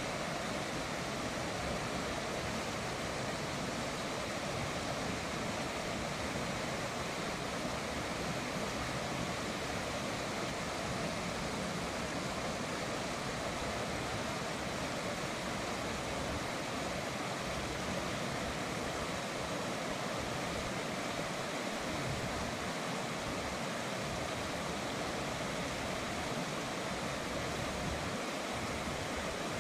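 River water running steadily, an even rushing noise with no breaks or separate events.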